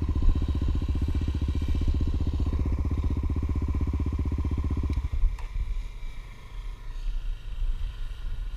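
Honda Tornado trail motorcycle's single-cylinder four-stroke engine idling with an even, steady pulse. It cuts off abruptly about five seconds in, leaving a low, uneven rumble.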